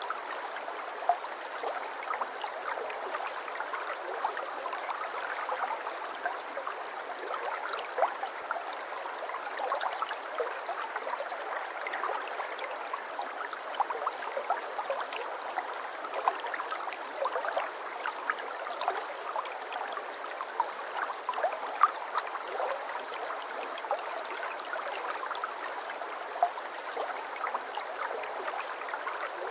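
A shallow brook babbling and trickling, with small bright splashes and gurgles throughout.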